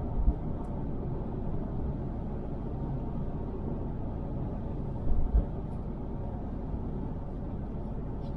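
Road noise inside a moving car's cabin: a steady low rumble, with short low thumps just after the start and twice about five seconds in.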